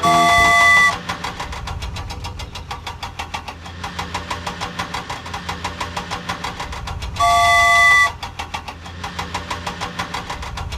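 Cartoon vehicle sound effects: an engine running with a fast, even putter, and a loud multi-tone horn blast lasting about a second at the start and again about seven seconds in.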